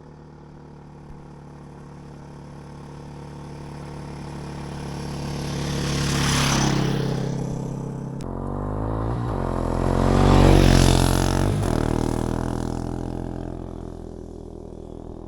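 Dirt-bike engines passing by, one after another: the engine sound swells to a peak about six seconds in and again, louder, about ten seconds in, then fades. Each pass carries tyre noise on the dirt and gravel road.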